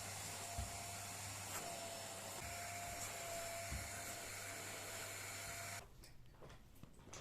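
A small electric appliance motor running steadily with a low hum and a faint whine, switched off suddenly near the end, followed by a few light knocks.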